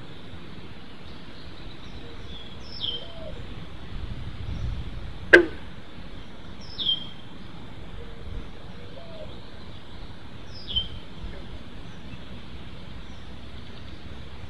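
Birds calling over steady outdoor background: a short high call sliding downward, repeated three times about four seconds apart, with fainter lower calls between. A single sharp click about five seconds in is the loudest sound.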